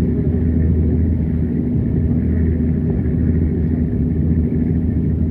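Steady low engine rumble with an even hum.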